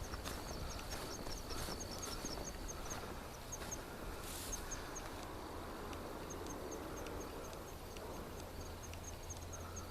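Footsteps of a hiker walking along a forest trail, soft irregular steps about twice a second. A high chirping repeats several times a second throughout, with a faint thin steady tone over the first three seconds.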